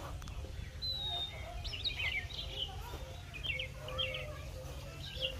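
Birds chirping: short high whistled notes and quick clusters of chirps every second or so, over a steady low rumble.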